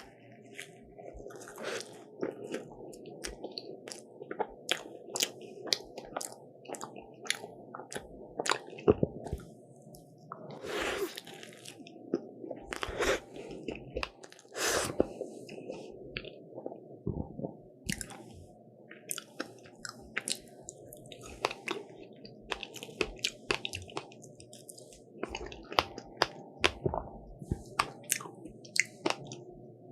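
Close-miked chewing of crisp croffles (croissant-dough waffles), with many sharp crunchy crackles. A few louder bites come around the middle.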